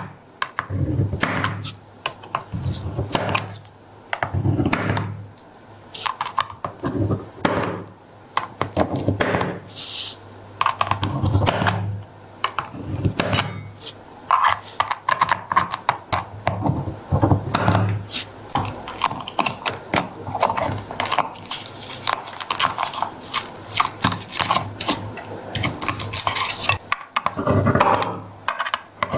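Irregular clicking and clattering of small hard objects being handled, in quick uneven bursts.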